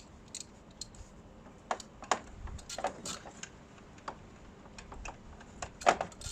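Irregular light clicks and knocks of hand tools and bolts against metal while the power steering pump is being unbolted, the loudest knock near the end, over a faint low wind rumble.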